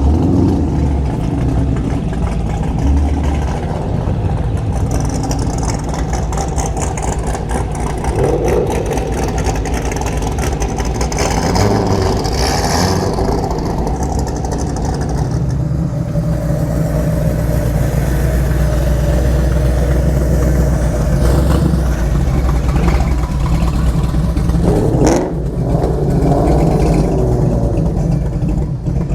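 A procession of cars driving slowly past, engines running steadily with some revving as each one goes by.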